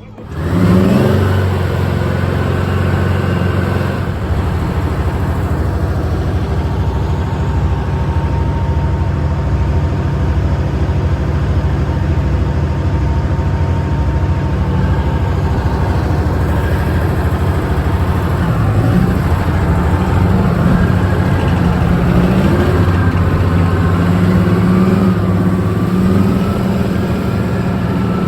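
Tank's diesel engine running loud and steady, heard from aboard the moving tank. It comes in suddenly about half a second in with a brief rise in pitch, then holds a dry, even note that swells and shifts in pitch in the second half.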